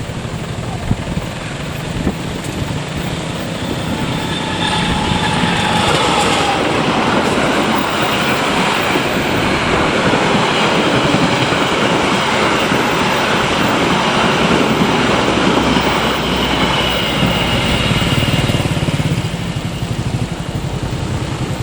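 A passenger train passing close by, its wheels running over the rails. It grows louder about four seconds in and eases off near the end.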